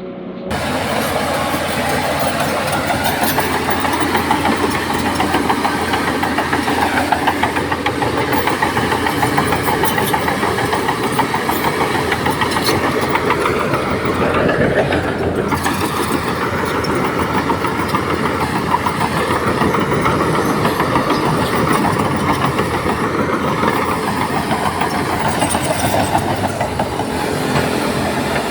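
Heavy diesel construction machinery running steadily under load, with a dense rattling clatter over the engine and one brief sweep in pitch about halfway through.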